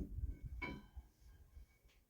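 Axle shaft being drawn out of a Dodge Ram's 9.25 rear axle housing: two light metal knocks about half a second apart, the second ringing briefly, over a low rumble.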